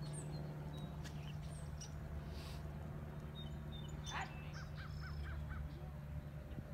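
Wild birds calling and chirping over a steady low rumble, with a quick run of about five short repeated calls about four and a half seconds in.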